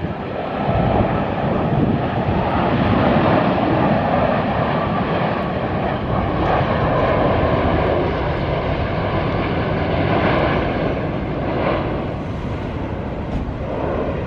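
Boeing 787-10 jet airliner's engines heard loudly as it lands: a dense rushing noise that swells about a second in and eases slowly toward the end.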